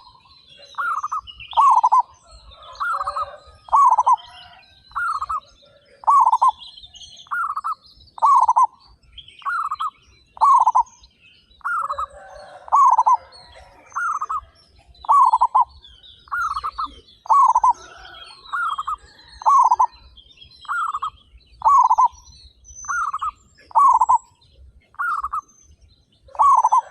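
Zebra dove (perkutut) cooing: a long steady series of short, loud, falling coos repeating about once a second, with faint high chirps of small birds behind.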